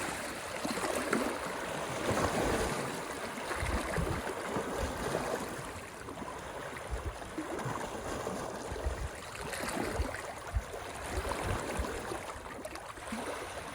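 Moving water: a steady rush that swells and eases every few seconds, with scattered low thuds underneath.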